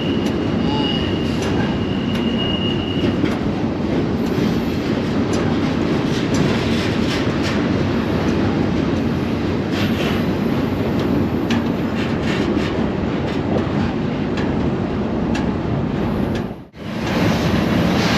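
Moving freight train heard from aboard a car: a steady rumble and rattle of wheels on rail with scattered clicks. A thin, high steady whine runs for the first few seconds. The sound cuts out briefly near the end.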